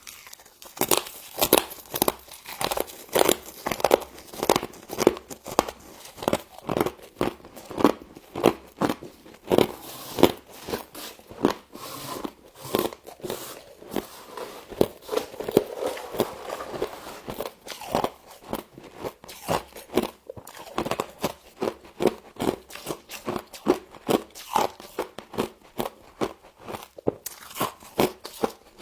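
Close-up biting and chewing of frozen humidifier frost: a rapid, irregular run of sharp crunches that eases for a few seconds midway before picking up again.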